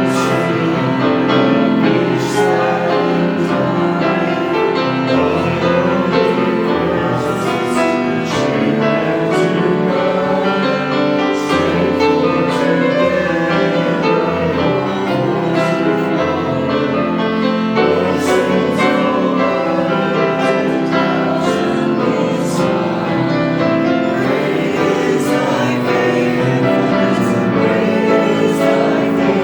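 A group of voices singing with piano accompaniment, steady throughout.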